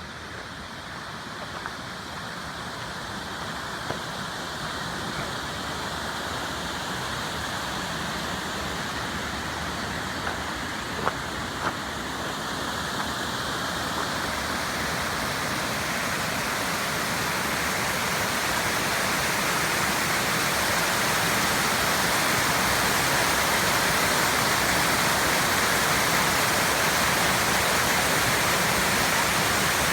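Waterfall rushing, a steady roar of falling water that grows louder as it is approached, with a few light taps about ten seconds in.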